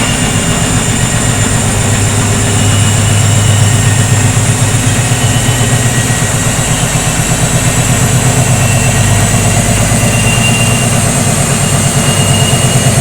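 Washing machine running at speed: a steady low motor and drum hum with a fast, even pulsing.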